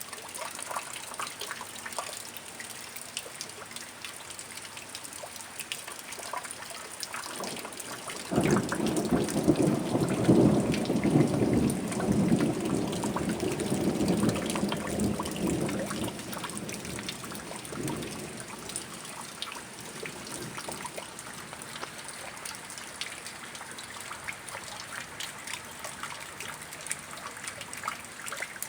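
Steady rain with scattered drips. About eight seconds in, a clap of thunder breaks suddenly and rumbles for several seconds before fading, with a last faint roll shortly after.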